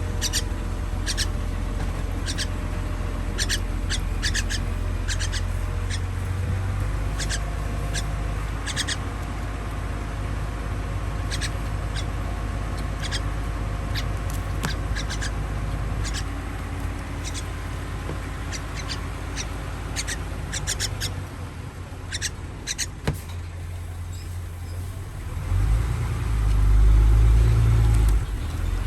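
Baby bird's begging calls during feeding: short, high-pitched cheeps repeated in quick clusters, over a steady low hum. A loud low rumble swells near the end.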